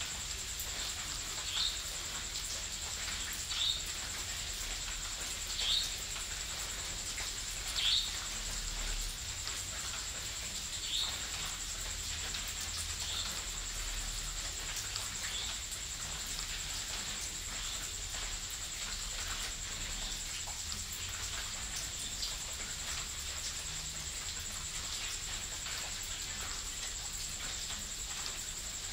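Steady rain falling on leaves, an even hiss. Short chirps repeat about every two seconds through roughly the first dozen seconds, then grow faint, over a steady high-pitched tone.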